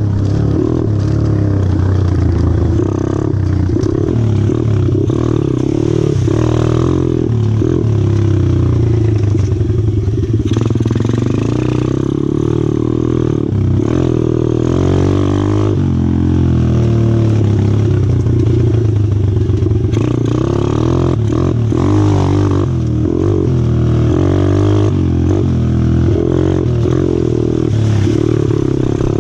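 A 125cc four-stroke pit bike engine running under way, its revs rising and falling as the bike is ridden.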